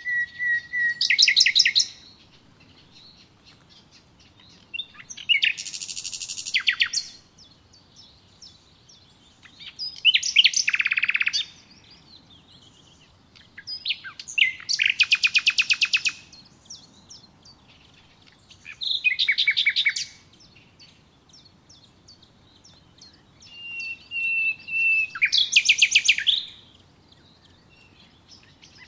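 A songbird singing short, rapid trilled phrases, one about every four to five seconds. Some phrases open with a held whistled note.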